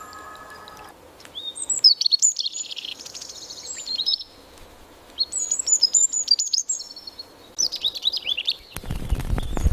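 Songbird singing in three rapid, high twittering phrases, with short pauses between them. A low rumble comes in near the end.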